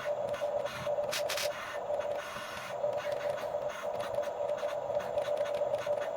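Electric motors of a Huina 1550 radio-controlled toy excavator whirring steadily, with a couple of sharp clicks about a second in.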